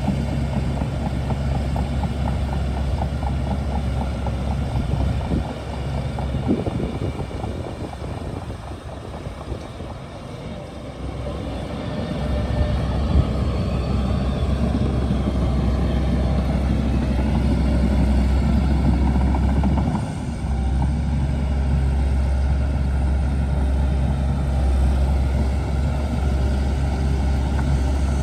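Shantui DH17C2 bulldozer's diesel engine running with a steady low hum. It drops in level from about five seconds in and comes back up about twelve seconds in, then runs steadily again.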